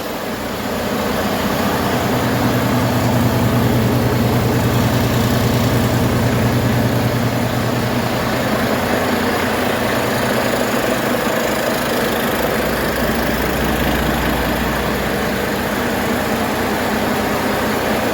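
Volvo D13J inline-six diesel truck engine running steadily on a test run; a good used engine that runs well.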